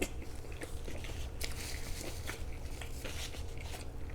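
A person chewing a mouthful of pizza, with irregular small crunches and wet clicks.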